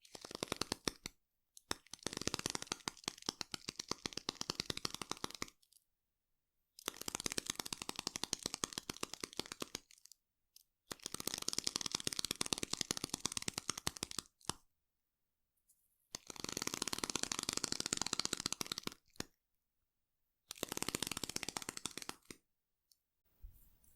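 Foam crackling and popping close to the microphone: a dense fine crackle in six passes of one to four seconds each, separated by dead silence.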